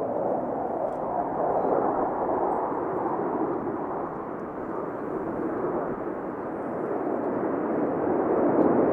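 Blue Angels F/A-18 Super Hornet jets passing, a steady jet rush that eases off a little midway and grows louder toward the end.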